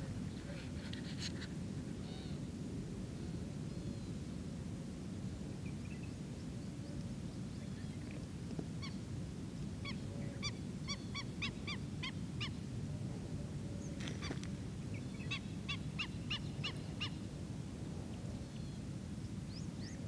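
Background birds calling: two runs of short, evenly repeated calls, one about halfway through and another a few seconds later, over a steady low rumble.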